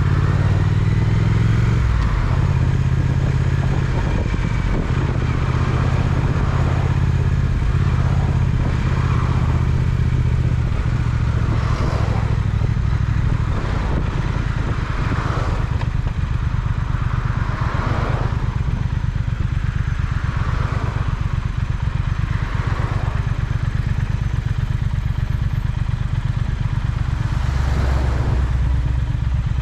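Triumph Speed Twin's parallel-twin engine running under way, holding a steady note for several seconds and then changing pitch several times as the rider works the throttle, with a deeper, lower note near the end.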